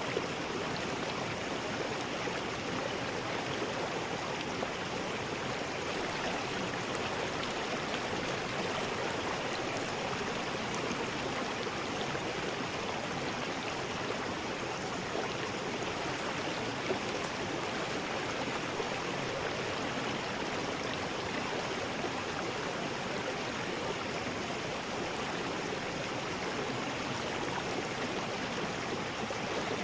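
River rapids: water rushing steadily over rocks, with an even hiss and a few faint splashes.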